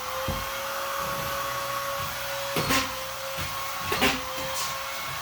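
Vacuum cleaner running steadily with a high, even whine over a rushing noise, and a few sharp knocks in the second half.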